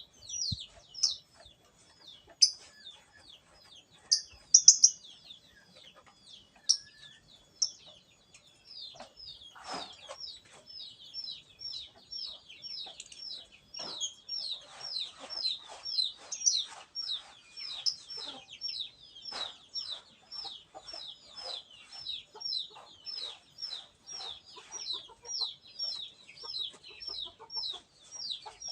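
Lovebird chattering: a long, unbroken run of short, high chirps that fall in pitch, two or three a second. There are a few louder, shrill calls in the first eight seconds.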